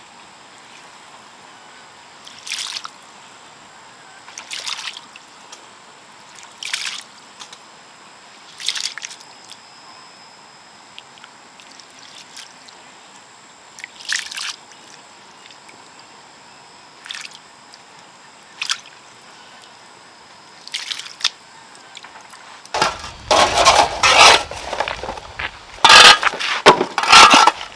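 Water sloshing in a container in short swishes about every two seconds. About 23 seconds in it turns into much louder, denser splashing and clattering.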